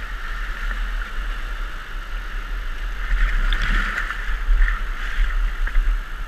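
Steady rush of whitewater from a river rapid, with a low rumble beneath that swells a little about halfway through.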